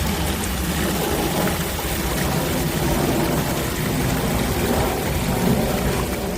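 Loud, steady rushing noise with a deep rumble underneath, cutting off suddenly at the very end.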